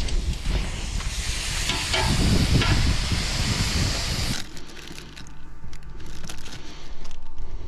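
Shrimp frying in a pan, a loud steady sizzle and hiss that cuts off abruptly about four seconds in, leaving quieter scattered clicks and knocks.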